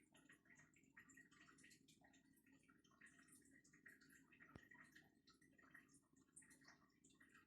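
Near silence: faint room tone with scattered soft ticks and one sharp click a little past halfway.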